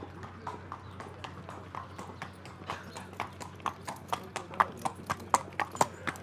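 Horse hooves clip-clopping in a quick, uneven run of knocks that grows louder in the second half.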